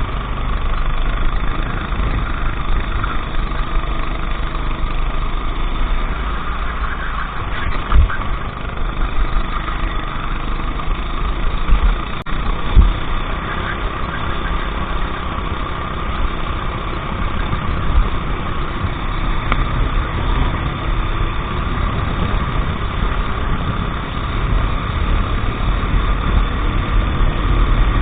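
Racing kart engine running steadily with a heavy low rumble; two sharp knocks stand out, about 8 and 13 seconds in.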